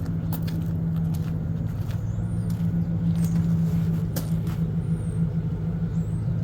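Car engine idling steadily, its low hum unbroken, while it charges a dead diesel truck's battery through jumper cables. A few sharp clicks sound over it.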